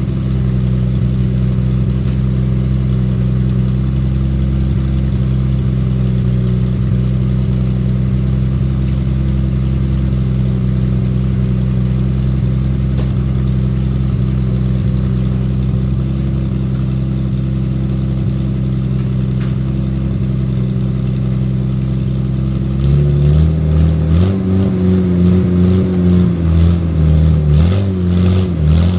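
Triumph TR6's straight-six engine running through a new stainless exhaust with 4-inch perforated-tube, fibreglass-packed back boxes. It idles steadily, then is revved repeatedly over the last several seconds.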